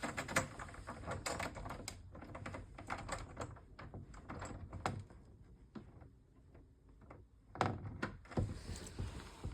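A door tapping and rattling lightly in its frame as a kitten paws and pushes at it: quick, irregular clicks and soft knocks, with a louder cluster about three-quarters of the way through.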